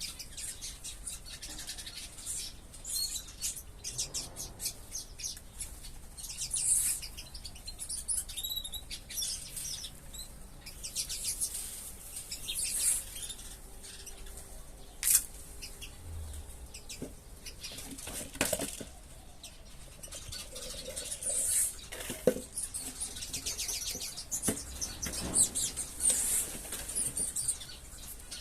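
A flock of small caged ornamental birds chirping continuously in quick, high-pitched calls, with wings fluttering. A few sharp knocks stand out along the way.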